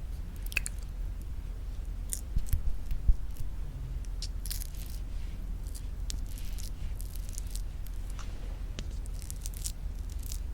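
Close-miked eating sounds of very thick Greek yogurt with honey: sticky, wet mouth clicks and smacks scattered throughout, with a couple of louder knocks between two and three seconds in.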